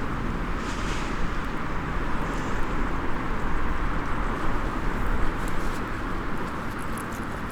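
A small wood fire in a compact stainless fire stand, crackling with a few faint sharp pops over a steady outdoor rush with a low rumble. The pops come mostly in the second half.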